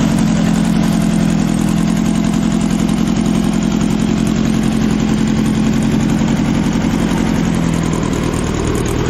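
Engine of a lifted VW Beetle on giant off-road tyres running at a steady low idle out of a tall upright exhaust stack, as the car begins to creep forward. Its pitch dips slightly near the end.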